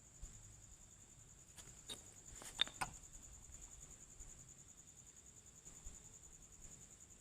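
Crickets chirping, a steady high trill. A few short clicks sound about two seconds in, the sharpest just past two and a half seconds.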